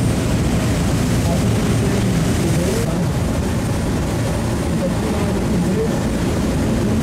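Tour boat's engine running steadily while under way on the river.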